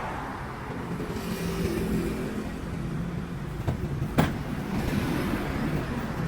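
A motor vehicle's engine running steadily, with two sharp knocks about four seconds in.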